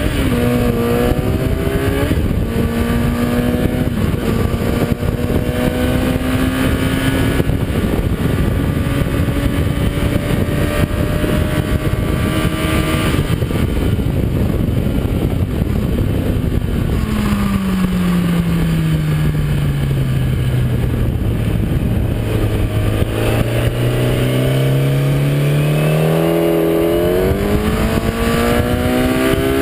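Kawasaki ZX-10R's inline-four engine heard onboard at speed over heavy wind rush. It holds high revs with brief steps as it shifts up, then its pitch falls steadily about halfway through as the bike slows. It stays low for a few seconds, then climbs again near the end as it accelerates and shifts up.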